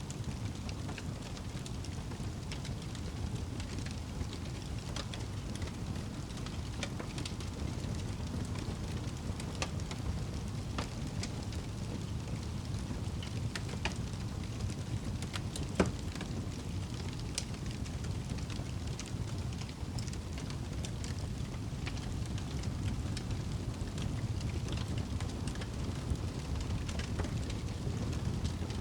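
Wood fire burning in a fireplace: a steady low rumble of the flames with scattered crackles and one louder pop about halfway through.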